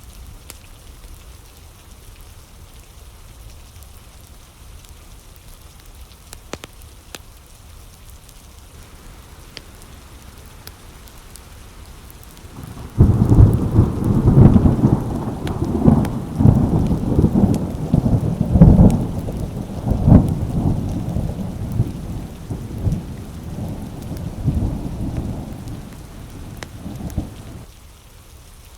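Steady rain falling, then about halfway through a loud clap of thunder breaks in suddenly and rolls on in repeated low rumbling peaks for roughly fifteen seconds before dying away near the end, leaving the rain.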